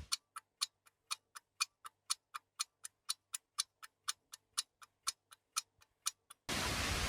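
Rapid, even ticking, about four ticks a second, alternating louder and softer. It stops suddenly near the end, and a steady hiss takes over.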